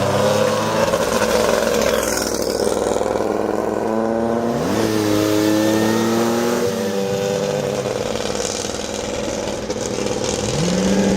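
Engines of historic Lancia rally cars driving in convoy, accelerating. Their pitch rises sharply about four and a half seconds in, falls back a couple of seconds later, and rises again near the end.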